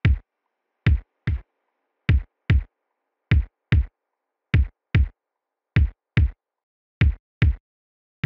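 Deep double thumps in a slow heartbeat rhythm, lub-dub pairs repeating about every 1.2 seconds with silence between them.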